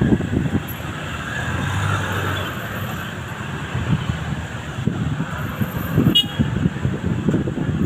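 Road traffic running at a railway level crossing, engines rumbling low, with a faint horn-like tone about two seconds in and a sharp click about six seconds in.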